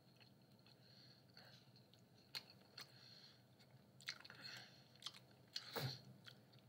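Faint close-up chewing of a mouthful of pizza: scattered soft mouth clicks and smacks, with a louder mouth sound near the end.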